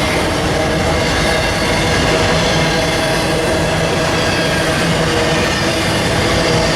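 A train rolling past close by: a loud, steady rumble of wheels on rails, with thin high tones from the wheels running through it.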